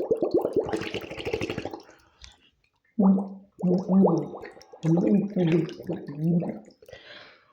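A person's voice making wordless sounds: a rattling stretch for about the first two seconds, then a run of short held notes that step up and down in pitch.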